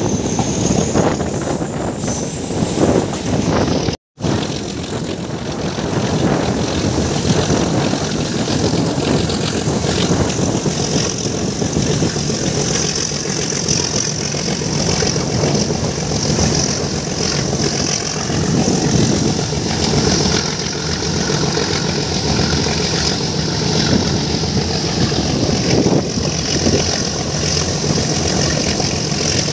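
Meter-gauge passenger train running at speed, heard from an open coach window: a steady running noise of wheels on rails and rushing air, broken by a momentary silence about four seconds in.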